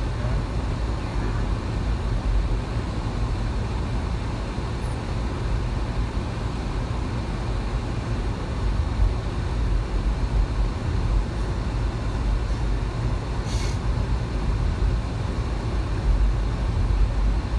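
Steady low rumble of road and engine noise inside a moving car, with a faint short tick about thirteen seconds in.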